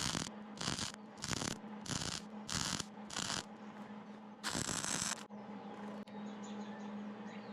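Welding arc crackling in short, evenly spaced bursts, about six in three seconds, then one longer burst; this is stitch welding to build up worn metal, where welding continuously would make the puddle too liquid and run down. A steady low hum runs underneath.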